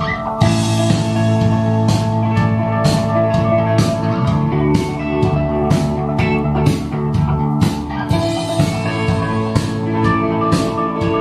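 Rock band playing a song: a steady drum beat of about two hits a second under sustained chords, with a cymbal crash near the start and another about two-thirds of the way through.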